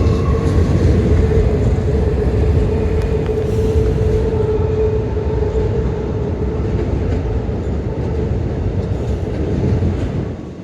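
Intermodal freight train crossing a long railroad bridge: a steady heavy rumble with a constant hum, dropping off sharply near the end.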